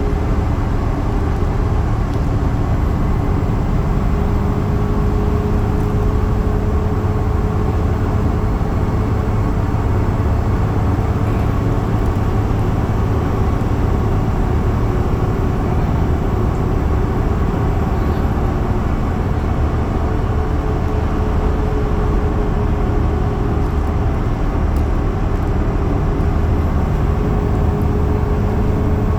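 Yutong bus running at high speed: a steady, deep engine and road rumble with a constant hum over it.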